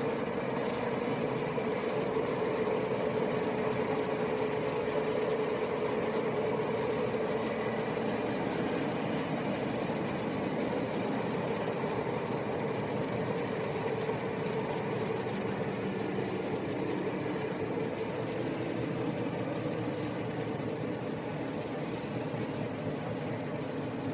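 Cercanías commuter train running, heard from inside the carriage: a steady rumble with a humming tone that fades out about two-thirds of the way through.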